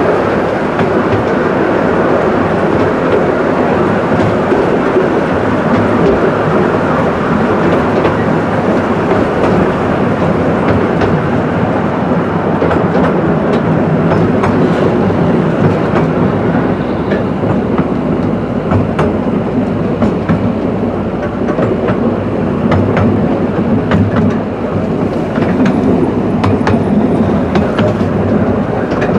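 Miniature railway train running, heard from on board: a steady rumble and rattle of the carriages, with wheels clicking over rail joints more and more often in the second half.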